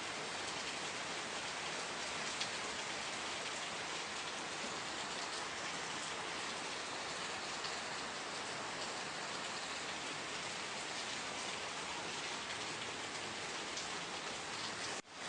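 Steady rain falling, an even hiss of many drops on a surface with scattered individual drop ticks. Near the end the sound drops out for a moment and comes straight back.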